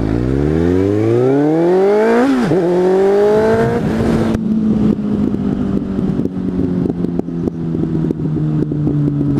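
Suzuki GSF 600 Bandit's inline-four engine through an aftermarket exhaust, accelerating hard: the pitch climbs, drops at a gear change about two seconds in, climbs again, then settles into a steady lower note with irregular crackles.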